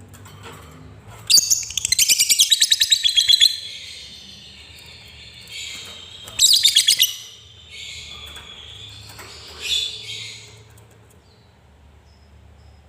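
Lovebird singing a long, very fast chattering trill (the 'ngekek'), starting about a second in and lasting about two seconds, then a shorter fast burst around the middle and a few single shrill calls.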